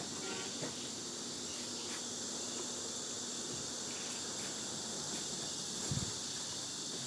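Steady outdoor chorus of insects, a continuous high-pitched buzz that does not change. A soft knock about six seconds in.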